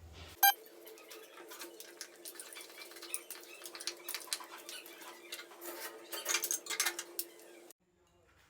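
Metal kitchen utensils clattering while rotis are made: a sharp ringing clank about half a second in, then many light clicks and taps over a steady low hum, louder around the end. The sound cuts off abruptly near the end.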